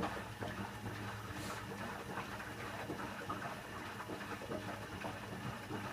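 Candy Aquamatic 1000T compact washing machine running an empty wash: a steady low electrical hum with a continuous patter of small water splashes and ticks from inside the drum.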